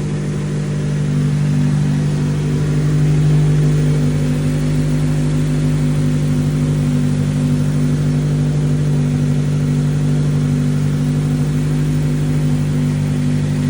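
Honda Civic Si's K-series four-cylinder engine running steadily at idle, with a slight swell about two to three seconds in. It is running through a crankcase flush with automatic transmission fluid added before an oil change.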